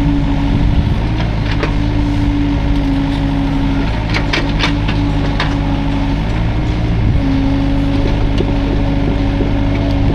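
Hydraulic excavator's engine running steadily at work. Its steady note changes for a few seconds in the middle, and a few sharp clanks come around the middle too.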